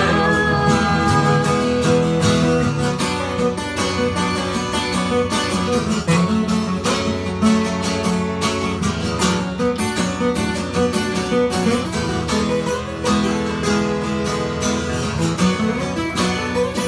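Acoustic guitar playing an instrumental break between sung verses, with quick picked and strummed notes.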